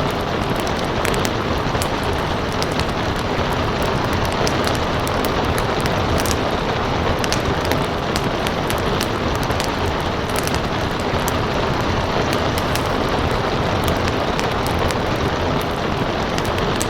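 Steady rain mixed with a wood fire crackling: a dense, even rain hiss under frequent small sharp pops and snaps from the burning wood.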